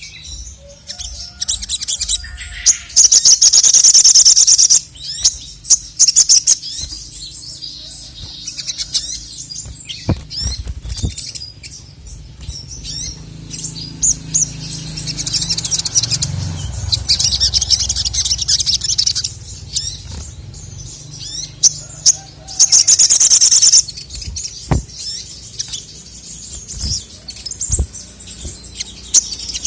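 Male sogon (sogok ontong) sunbird singing with full energy: rapid, very high chirps and trills, rising three times into long, loud bursts of fast trilling, with short sharp calls between.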